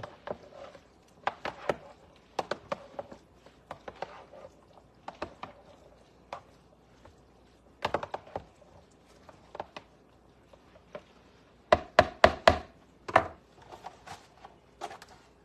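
Kitchen utensils and dishes knocking and clinking at the counter: scattered sharp taps, with a quick run of four loud knocks about twelve seconds in and another a second later.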